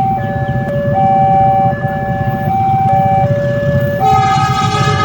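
Railway level-crossing alarm sounding a two-tone warning over the rumble of an approaching CC 201 diesel locomotive and its train. About four seconds in, the locomotive's horn starts blowing loudly.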